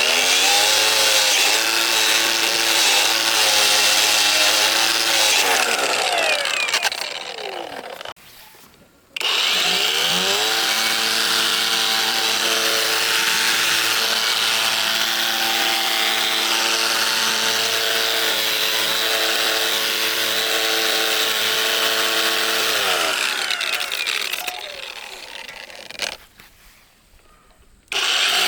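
Electric power tool running at full speed with a steady whine and a hiss of material being worked. It winds down and stops about seven seconds in and spins back up about nine seconds in. It winds down again from about twenty-three seconds, is quiet for a moment, and starts once more at the very end.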